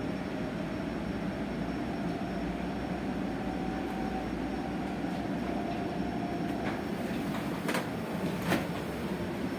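Electric bus cabin while driving: steady running and tyre noise with a faint electric motor whine that slowly rises and falls. Two sharp clicks come near the end.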